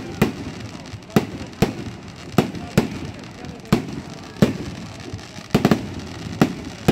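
Fireworks display: a rapid series of about ten sharp bangs, roughly one every half second to a second, some coming in close pairs.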